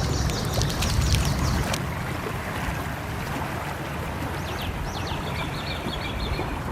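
Steady flowing stream over a low rumble, with small birds chirping in quick runs of high notes, in the first two seconds and again in the second half.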